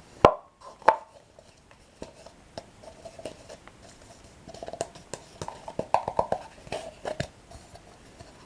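Dip Dip Bollycao toasted breadsticks being bitten and chewed: two sharp snaps in the first second, then a run of crisp crunching that gets busier about halfway through.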